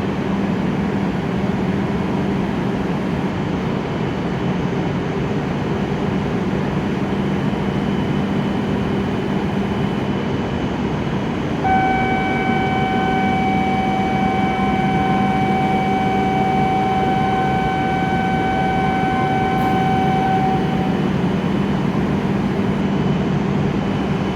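E7-series shinkansen train pulling out of the station, a steady running noise with a low hum. About halfway through, a steady high-pitched whine of several tones comes in and lasts about nine seconds.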